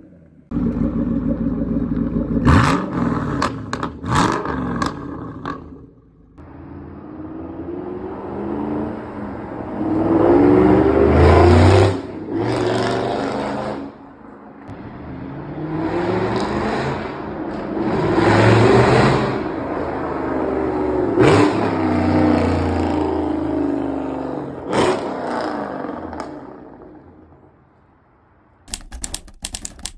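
Shelby GT500 Mustang's V8 through a custom catless exhaust, loud, revving up and down in several swells, with a few sharp cracks. Near the end comes a short run of quick clicks.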